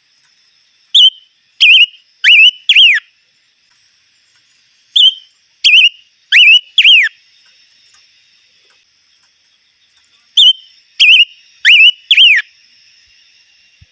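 A bird singing loud whistled phrases, each of four quick notes that rise and then drop sharply in pitch. The phrase is repeated three times, about four and a half seconds apart, over a faint steady high hum.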